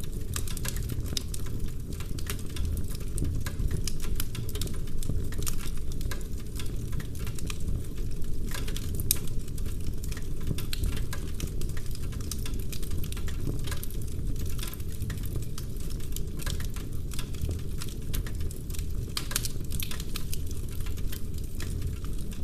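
Wood fire burning in a fireplace: dense, irregular crackling with frequent sharp pops of the burning logs over a steady low rumble of the flames.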